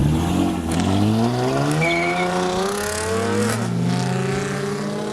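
A car engine accelerating hard, its pitch climbing, with a brief dip and recovery of the engine note about three and a half seconds in, as at a gear change.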